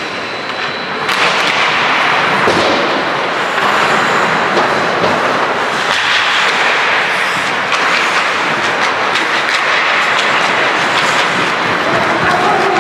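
Ice hockey game play on a rink: a steady scraping rush of skates on ice, with scattered clacks of sticks and puck throughout.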